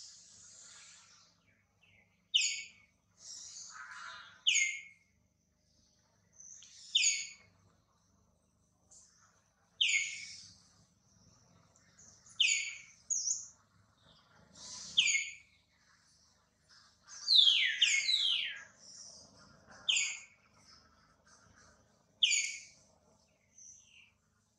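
A bird repeats a short, high call that falls steeply in pitch, about once every two and a half seconds, with a quick run of three calls about two-thirds of the way through.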